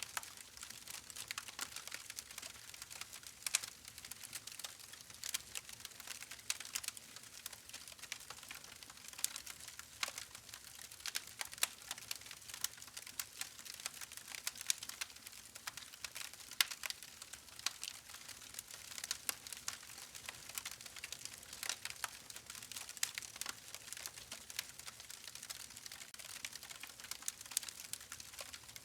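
Wood fire crackling: dense, irregular snaps and pops over a soft hiss, with a few sharper pops now and then.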